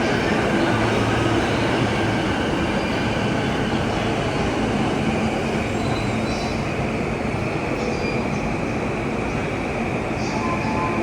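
Commuter train running steadily on its rails, a continuous rumble with faint high wheel squeals now and then.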